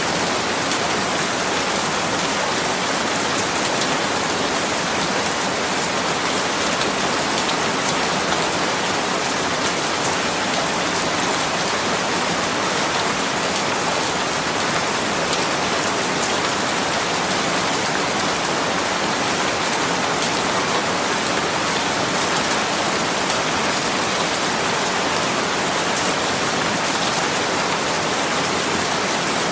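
Steady rain falling on a surface, an even wash of dense raindrops with faint fine drips and ticks through it.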